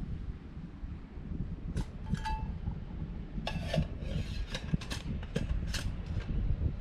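A metal pot or lid being handled: a series of scrapes and light clinks, one with a short metallic ring, over a steady low rumble.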